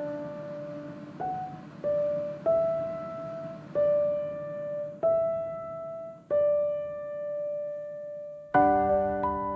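Background music: slow, gentle piano playing single notes one after another, each left to ring, with a long held note before a fuller chord comes in near the end.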